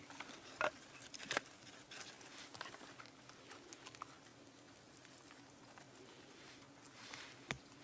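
Faint scattered clicks and light taps over a low hiss, with sharper ones about half a second in, a second and a half in, and near the end.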